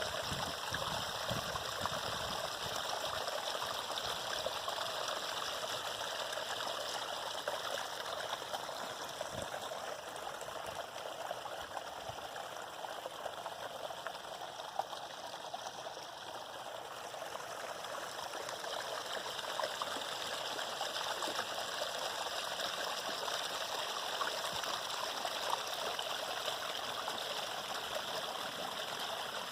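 Water of a natural spring flowing and trickling steadily over its bed in a small stream.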